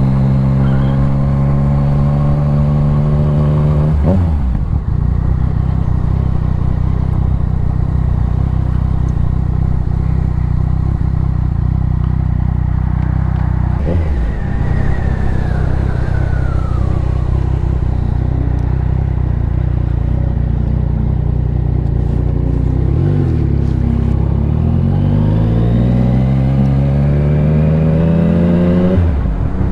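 Motorcycle engine running while riding, mostly at a steady pitch. Its note breaks briefly about four seconds in and again about halfway through, then climbs again and again through the last several seconds as the bike accelerates.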